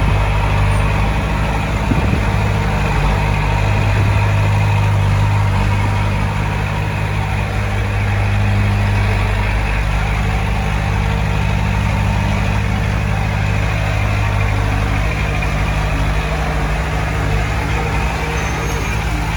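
Heavy diesel engine of the earthmoving machinery running steadily, a low, even hum with no change in pitch.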